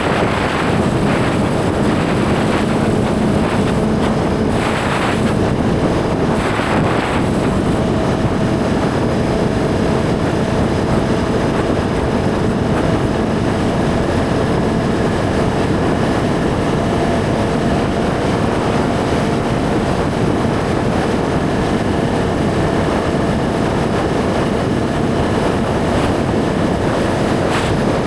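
Suzuki GSX-R1000's inline-four engine holding a steady pitch while the bike cruises at constant speed, under a steady rush of wind on the rider's camera microphone.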